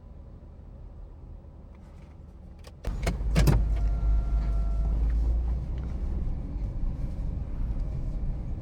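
Car sounds: a quiet low hum, then about three seconds in a few sharp clicks and a sudden jump to a much louder, steady low rumble, with a brief steady whine for about a second and a half.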